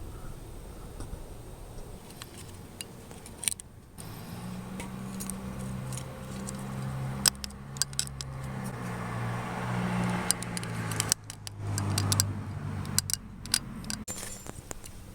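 Metal tools and parts clinking and clattering several times, over a low hum.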